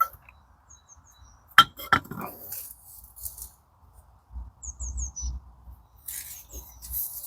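Two sharp metallic clicks about a second and a half in as gearbox shaft parts are handled, then faint handling noise and a brief run of four short high chirps midway.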